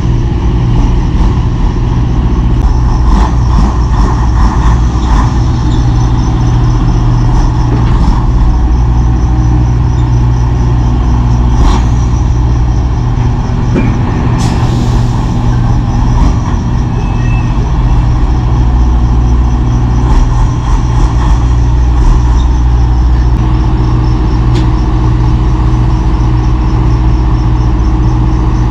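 Semi truck's diesel engine running steadily, with scattered clicks and rattles and a short hiss of air about halfway through.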